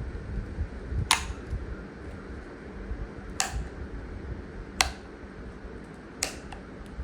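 Four sharp clicks, spaced roughly one and a half seconds apart, with a couple of fainter ticks just after the last, over a low steady rumble.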